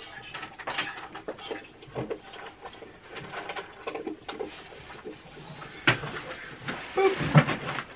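Goat being hand-milked: an irregular run of short squirts of milk hitting a small stainless steel bowl.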